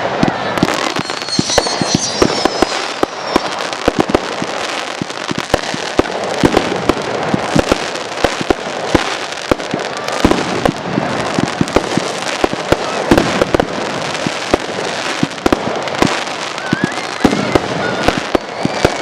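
Fireworks display in a dense barrage: many sharp shell bursts, several a second, over continuous crackling, with faint whistles about two seconds in.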